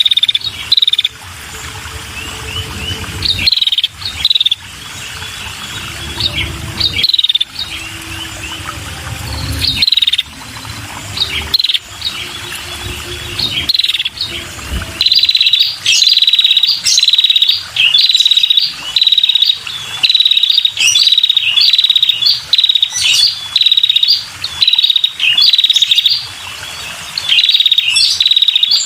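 Female red-headed prenjak calling: short, sharp chirps repeated again and again. The calls are scattered at first over a low background rumble, then come loud and in quick, regular succession from about halfway on.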